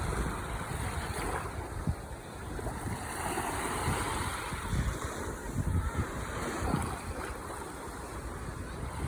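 Ocean waves breaking and washing up the shore, one surge swelling about three seconds in and easing off. Wind gusts thump against the microphone now and then.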